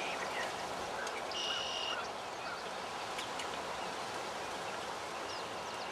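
Outdoor spring ambience: a steady background hiss with faint scattered bird chirps, and a brief buzzy trill about a second and a half in.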